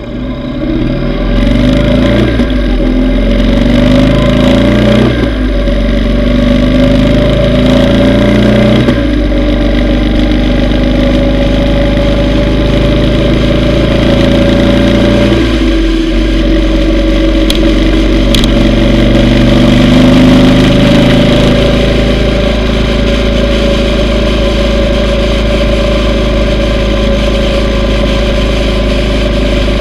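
Yamaha V Star 950's air-cooled V-twin engine pulling up through the gears, its pitch climbing twice with a break at each shift. It then cruises steadily, eases off about halfway through and climbs again before settling, over steady wind rush.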